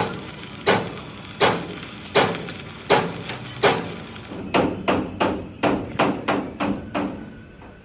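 Hammer blows on the steel truck chassis frame: about six evenly spaced strikes, then a quicker run of about eight lighter strikes. A steady hiss under the first strikes stops suddenly about halfway through.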